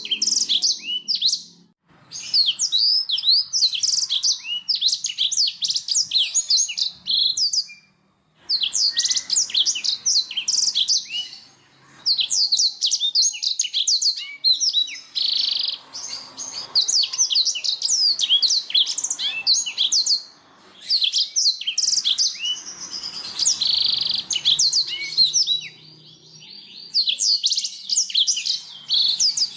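Domestic canary singing: long phrases of rapid high chirps and trills, broken by short pauses every few seconds.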